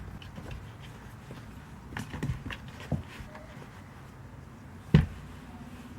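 A few scattered light knocks and bumps, with one sharp thump about five seconds in.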